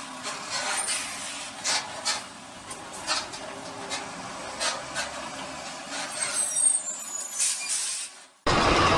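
Traffic noise picked up by a dash camera, with a series of sharp knocks and clicks. Near the end it cuts out briefly and switches abruptly to much louder, steady road noise.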